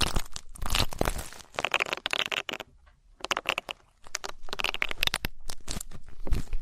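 Ear-cleaning ASMR: an ear pick scraping and rubbing right against the microphone, a dense run of crackling scratches and clicks. It pauses briefly twice around the middle.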